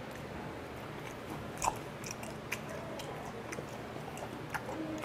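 Close-miked chewing of chewy raw fish slices, with scattered wet mouth clicks and smacks, one louder smack near the start.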